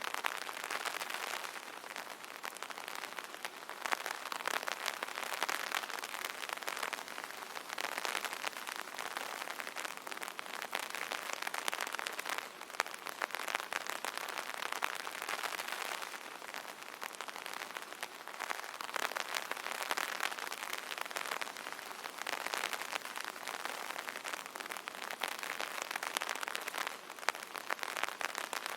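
Rain pattering on an umbrella canopy: a dense, steady spatter of drops that swells and eases every few seconds.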